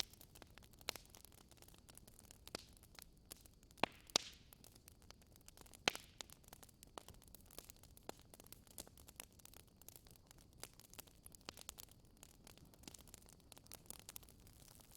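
Wood fire crackling: faint irregular pops and snaps over a soft hiss, with a few louder pops about four and six seconds in.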